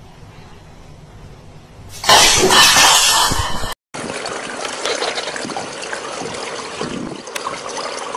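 A loud rushing noise about two seconds in, lasting about a second and a half and cutting off suddenly, followed by steady swimming-pool water sloshing and lapping around a swimmer.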